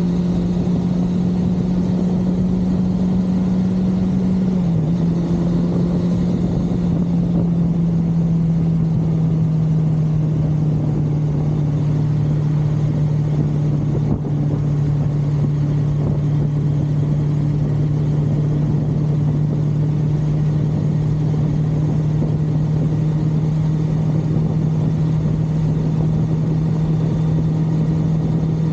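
A 1982 Suzuki GS550L's air-cooled inline-four running steadily under way, over steady wind and road noise. The engine note drops a little about five seconds in, then holds even.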